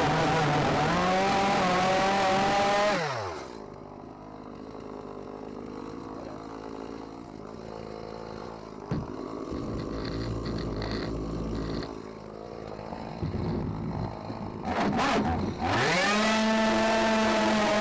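Two-stroke chainsaw running at full throttle, its pitch sagging slightly as it cuts into the boat's fiberglass transom. About three seconds in it drops back to idle and idles for around twelve seconds. After a few short blips near the end, it revs back up to full throttle.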